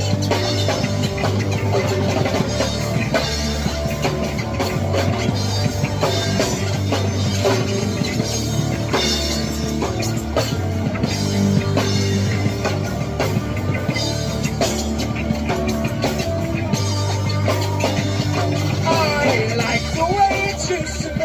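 Rock band playing an instrumental passage, with a drum kit keeping a steady beat under the other instruments.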